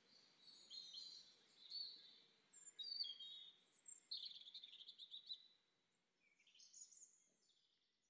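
Wild birds chirping and whistling: a string of short high calls, a fast trill in the middle, and a few more calls near the end, over faint outdoor background hiss.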